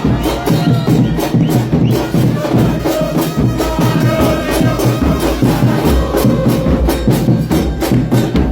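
Football supporters' drum band pounding a steady beat on bass drums and other percussion, with a crowd chanting over it.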